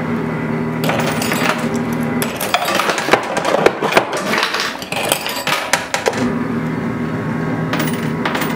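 Quarters clinking and clattering in a coin pusher machine, a dense run of metallic clicks for about four seconds in the middle, over the machine's steady hum.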